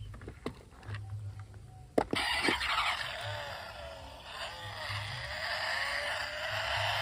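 A sharp click about two seconds in, then a steady scraping, rolling noise with a wavering whine that rises near the end, as of toy cars rolling over a surface.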